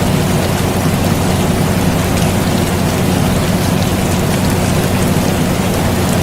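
Steady air conditioner hum mixed with continuous rain pattering, an even, unchanging bed of noise with a low steady drone underneath and fine drop ticks on top.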